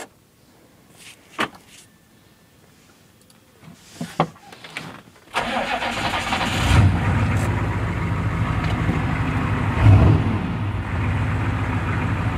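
A few sharp clicks, then about five seconds in the 1995 Chevy truck's 6.5-litre turbo diesel V8 starts and runs at a steady idle, with brief swells in revs about seven and ten seconds in.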